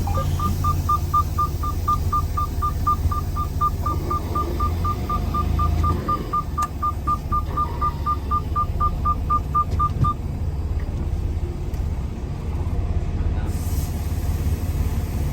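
Rapid electronic beeping at one steady pitch, about four beeps a second, stopping about ten seconds in, over the low rumble of a semi truck's running engine.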